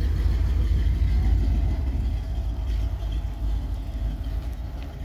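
Car engine running with a steady low exhaust rumble, as a car pulls into the car show.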